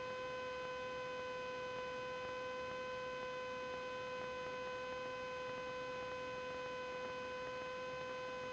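Steady, unwavering hum with a stack of even overtones: electrical whine picked up on the cockpit intercom audio feed during the takeoff roll, with little engine noise coming through.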